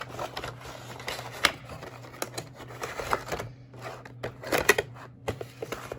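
Cardboard box and plastic packaging being handled: irregular light clicks, taps and scrapes, with a few sharper knocks.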